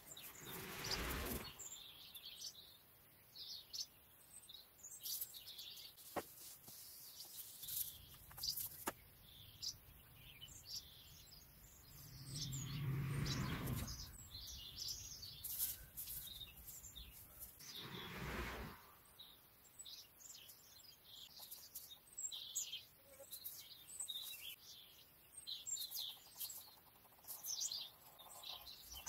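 Birds chirping faintly off and on. Three brief, louder swells of noise come about a second in, around halfway through, and about two-thirds of the way through.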